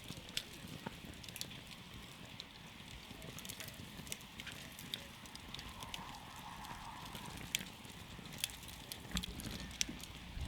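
Wood campfire crackling, with irregular sharp pops and snaps over a steady low rush of burning.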